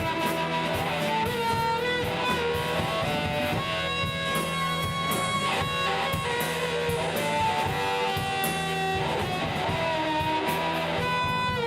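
A live rock band playing an instrumental passage between sung lines, with guitars strumming under a held melody line.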